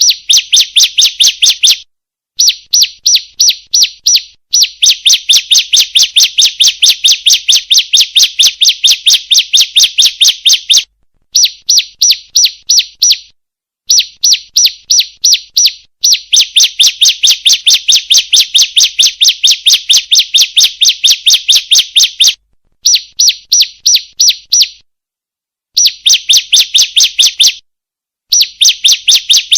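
Female bar-winged prinia (ciblek) calling: fast, evenly spaced runs of sharp, high chip notes. The runs last two to six seconds each and are broken by short silent breaks.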